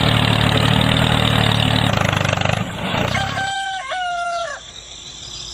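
A steady droning hum with a hissy edge, which cuts off after about two and a half seconds. Then, about three seconds in, a rooster crows once: cock-a-doodle-doo.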